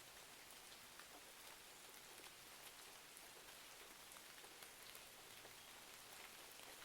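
Faint, steady rain: an even hiss dotted with many small ticks of falling drops.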